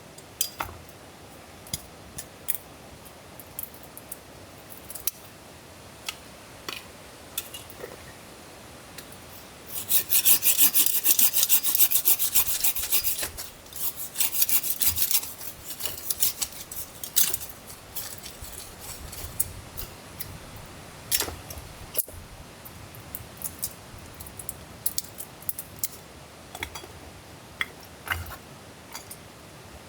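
Fast, high rasping strokes for about three and a half seconds, starting about ten seconds in, with scattered clicks and taps before and after: a hand tool scraping or sawing on wood.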